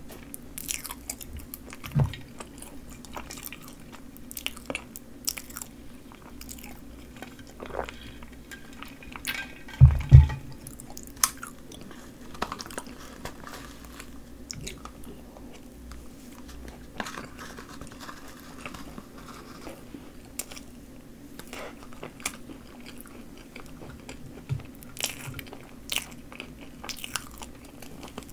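Close-miked chewing and mouth sounds of Choco Pie with whipped cream, broken by small clicks of chopsticks against a plastic cup. A loud low thump comes about ten seconds in, over a faint steady low hum.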